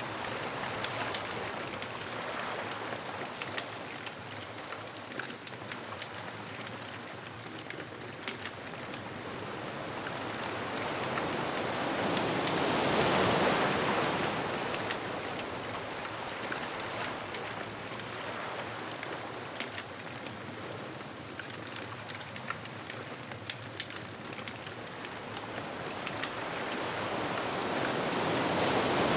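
Ocean surf washing steadily on a beach, with a wave breaking and swelling louder about halfway through and again at the end. Small crackling pops from a bonfire run throughout.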